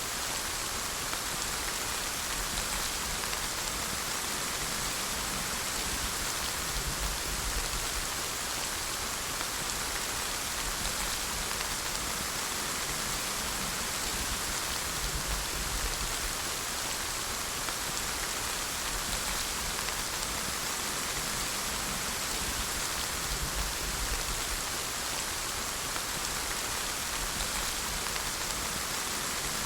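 Steady rain falling, an even hiss of many drops without a break or change.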